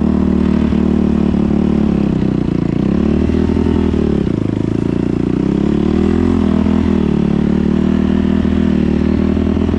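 Small engine running steadily, its pitch sagging about four seconds in and picking up again around six seconds.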